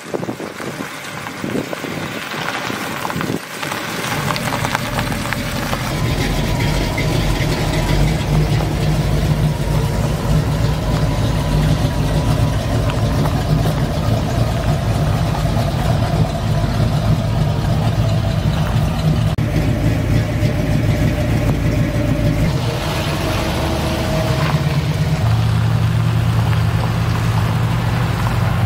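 Classic car engines running as the cars drive slowly past in a line. It starts quieter, then a steady low engine rumble builds about four seconds in and holds.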